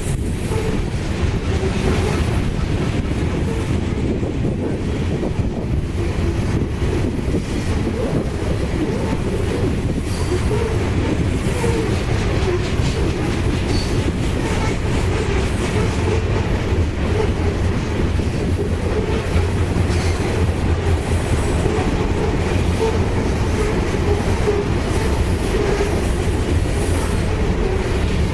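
Freight train rolling past at close range, its cars' wheels running steadily over the rails.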